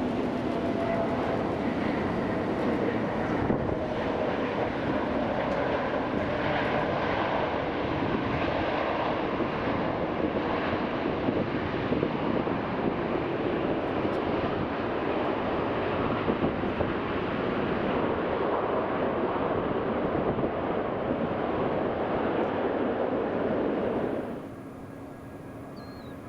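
Airbus A380 landing: steady jet noise from its four engines. The noise cuts off abruptly near the end, leaving a much quieter background with a faint steady hum.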